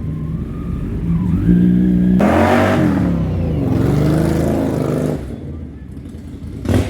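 Superbike engine revving: the pitch climbs sharply about two seconds in and sweeps up and down for a few seconds, then drops back quieter, with a short sharp rev just before the end.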